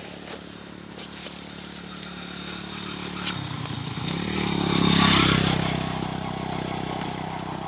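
A vehicle engine running, growing louder to a peak about five seconds in and then fading, as a vehicle passes.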